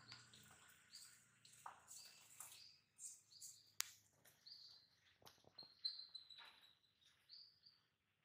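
Faint chirping of small birds: short, high-pitched notes repeating. Among them are a few soft wing flaps from fighting pigeons, and one sharp click about four seconds in.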